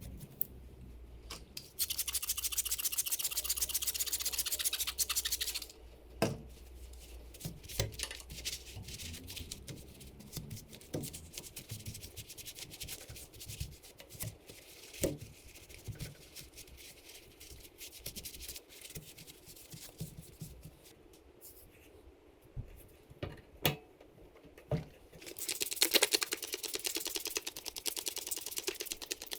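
Hand scrubbing on the Honda CRF150R engine's cases: two stretches of fast, hissing scrub strokes, one early and one near the end, with scattered clicks and taps in between.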